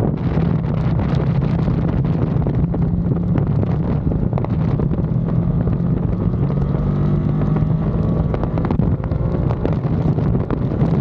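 Ducati Panigale V2's V-twin engine running hard on track, its pitch shifting through the middle seconds, with wind rushing over the microphone.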